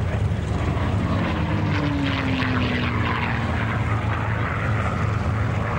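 Piston-engined propeller aircraft flying past, its engine drone steady with a tone that slides slowly down in pitch about a second in as it passes.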